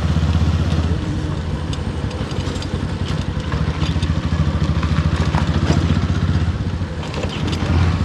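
Motorcycle engine running under way, its low engine note easing off about a second in and again near seven seconds before picking back up, over steady riding noise.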